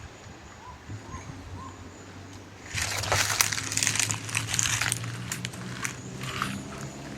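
Footsteps crunching through dry leaves: a dense crackle for about two seconds, starting a few seconds in, then a few lighter crackles and clicks.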